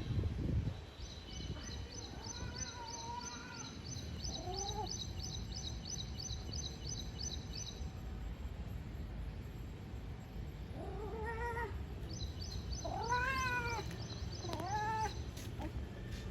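Domestic cat meowing repeatedly: two short meows in the first few seconds, then three louder ones close together near the end. A faint, fast high-pitched chirping of about three to four ticks a second runs in the background for long stretches.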